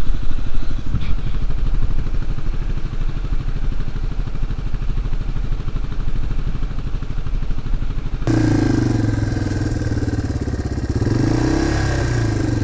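Dirt bike engine running at low revs with a steady putter. About eight seconds in, the sound switches abruptly to a higher engine note that rises and falls as the bike is ridden, with a hiss over it.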